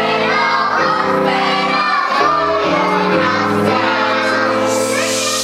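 Children singing together over sustained instrumental chords that change every half second to a second. Near the end a hissy, noisier sound rises over the music.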